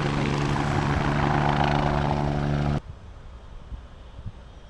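Helicopter running with a loud, steady droning hum that cuts off abruptly about three seconds in, leaving only faint background noise.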